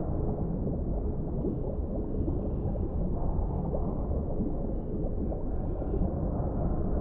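Deep-sea underwater ambience: a steady, muffled low rumble with many small bubbling pops through it.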